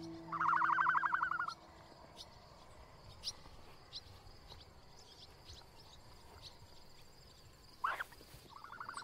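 Outdoor bird sounds: a loud, rapid rattling trill for about a second near the start, scattered short high chirps, and another trill near the end.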